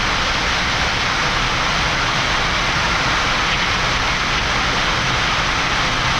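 Steady, even rushing noise on the flight deck of a Boeing 787-9 in its climb, the sound of air streaming past the cockpit.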